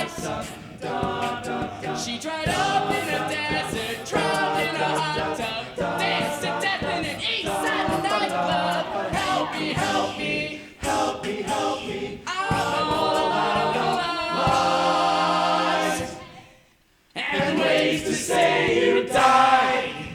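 All-male a cappella group singing a pop arrangement in close harmony over a beatboxed vocal-percussion beat. About three-quarters of the way through, everyone stops together for a moment, then the voices come back in for a final loud phrase.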